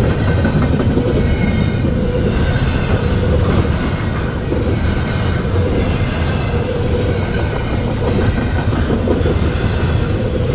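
Intermodal freight train rolling past, a steady loud rumble of the cars' wheels on the rails.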